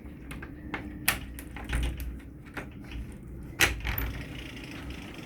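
Irregular clicks and knocks from a phone being handled and someone moving about on a boat, the loudest about a second in and again near 3.5 seconds, over a low rumble of wind on the microphone.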